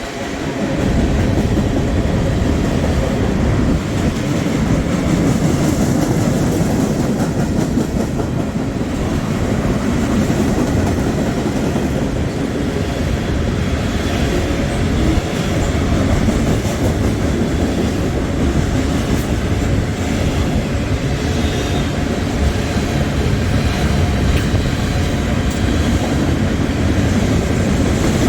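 Long freight train passing, a steady loud rumble of its cars rolling by on the rails.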